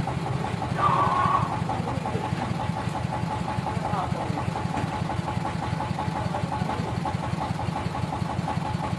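Engine powering a sawmill, running steadily with an even, rapid pulse, with a brief louder sound about a second in.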